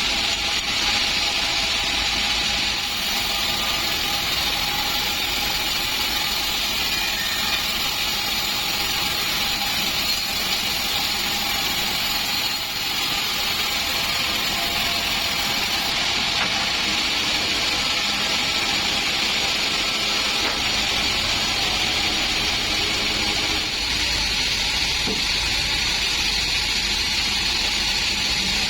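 Band sawmill (48-inch bandsaw) running steadily, a loud, even, hissing machine noise with a faint constant hum underneath.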